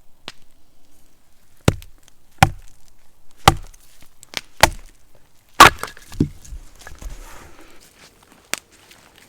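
Wood being chopped: about six heavy blows roughly a second apart, the loudest about halfway through, then a lighter knock near the end.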